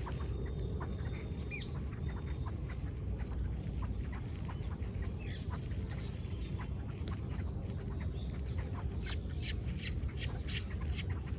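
Birds chirping in short, high, falling calls, scattered at first and coming thick and fast near the end, over a steady low rumble.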